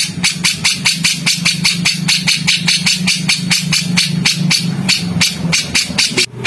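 Songbird giving a fast, harsh run of sharp chattering calls, about seven a second, in a steady rhythm with a short break near the end: a 'tembakan kasar' call as used in bird-training recordings. A steady low hum runs under the calls and stops shortly before the end.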